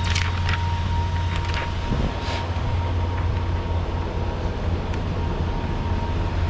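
Semi-truck diesel engine idling with a steady low drone, a few light clicks and rustles of handling in the first couple of seconds, and a thin steady whine that stops near the end.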